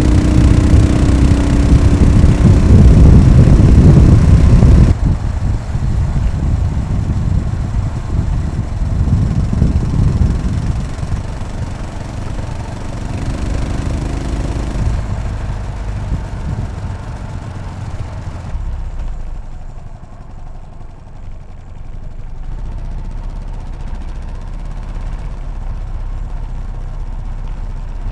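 Yamaha SR500's air-cooled single-cylinder four-stroke engine running loudly for the first few seconds, then dropping off abruptly about five seconds in and settling to a lower, steadier run for the rest.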